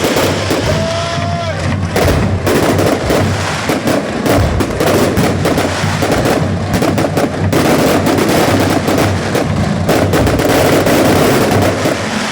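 A fireworks display going off in a dense barrage of bangs and crackles, with music playing along. A brief whistling tone comes about a second in.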